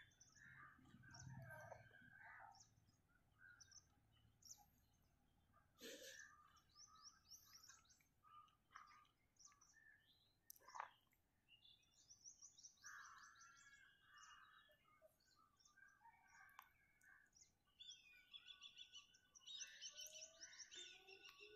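Faint birds chirping and calling, with short calls scattered throughout and quick high trills around six seconds in and again near the end.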